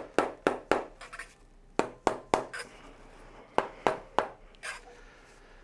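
Soft-blow mallet tapping the end cap insert into a Yoshimura RS-12 muffler to seat it. Quick light taps come in three short runs with pauses between.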